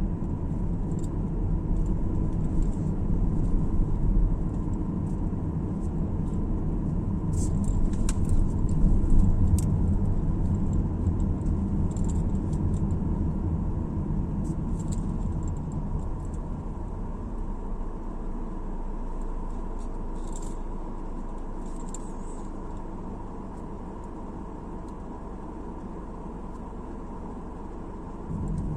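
Car driving on the road, heard from inside the cabin: a steady low rumble of tyres and engine with scattered light rattles and clicks. It is loudest about a third of the way in, then the rumble gradually fades lower through the second half.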